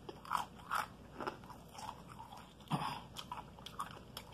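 Close-up mouth sounds of someone chewing crispy fried chicken: a string of soft, irregular crunches and crackles, the loudest a little past halfway.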